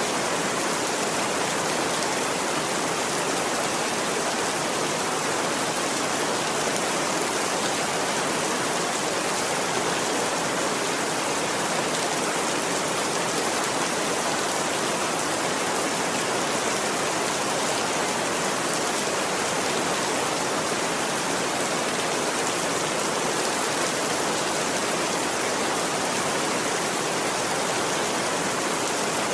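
Steady rain, an even hiss that keeps up without let-up.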